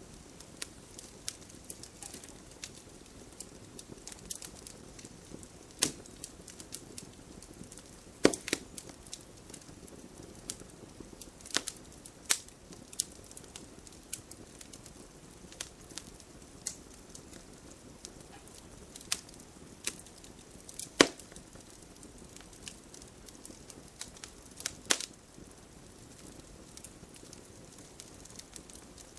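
Wood campfire burning and crackling: a soft steady hiss with scattered sharp pops and snaps, the loudest a few seconds apart.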